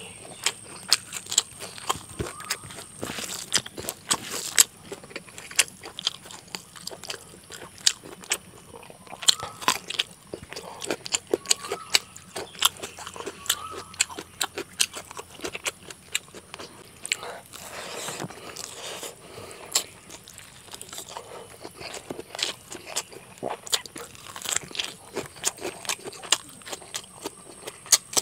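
Close-miked eating sounds of chicken curry and rice eaten by hand: wet chewing and biting, with many sharp, irregular mouth clicks and crunches.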